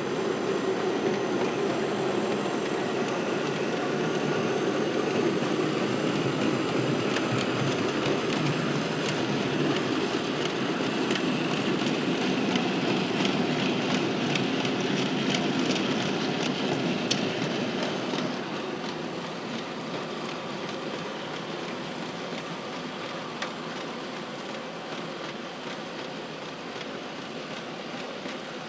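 Model train running along the layout track, a steady rumble of wheels with scattered clicks over rail joints. It grows quieter after about eighteen seconds, as the train moves off.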